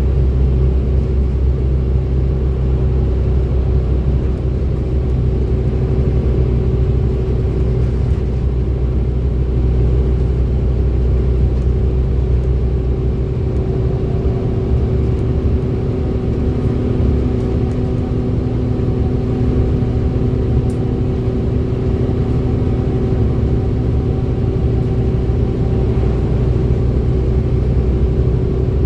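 A single-deck or double-deck service bus's diesel engine running under way, a steady low rumble with a constant vacuum-cleaner-like "hoover" whine over it. About halfway through, a second steady whine joins in as the engine note changes.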